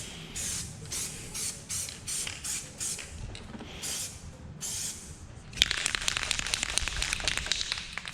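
Aerosol spray-paint can hissing in short bursts, two to three a second, as paint is sprayed in quick passes. About five and a half seconds in it turns into a louder, continuous stretch full of rapid clicks and crackle.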